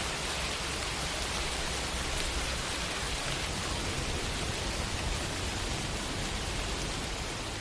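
Steady heavy rain: a dense, even hiss with no separate drops standing out, beginning to fade slightly near the end.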